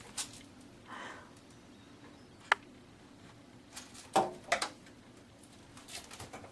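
Scattered taps and rustles as a Harris's hawk picks at sticks and balled-up paper, with a single sharp click about two and a half seconds in and a louder cluster of rustling just after four seconds.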